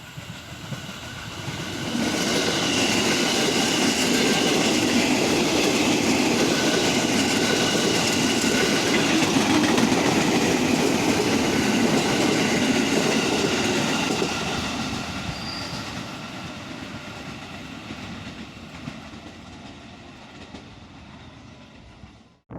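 A train passing close by, its wheels clattering and squealing on the rails. The sound swells about two seconds in, stays loud for some ten seconds, then fades away before it cuts off abruptly near the end.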